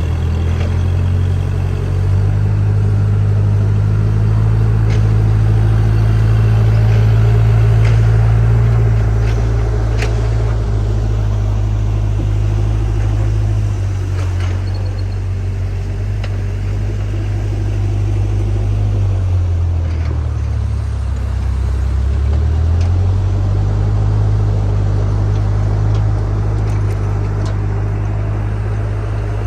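Backhoe loader's diesel engine running hard, its revs dropping for a few seconds just before the middle of the clip and then coming back up, with scattered sharp metal knocks.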